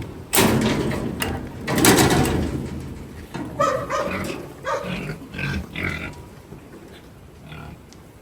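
Pigs grunting and squealing: two loud, harsh outbursts in the first few seconds, then a string of shorter grunts that tails off.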